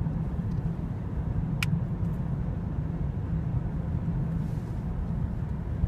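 Gusty wind buffeting the microphone: a steady low rumble, with one sharp click about a second and a half in.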